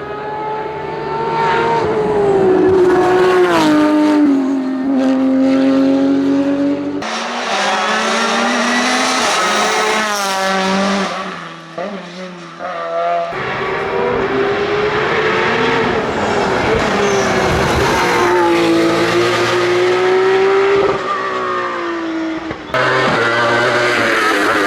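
Hillclimb race cars at full attack, engines screaming at high revs. The pitch climbs and drops again and again with gear changes and lifts for corners. The sound changes abruptly a few times as one car gives way to the next.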